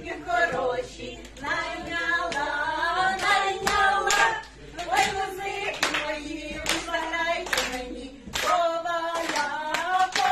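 Voices singing a song together, with a regular beat of hand claps.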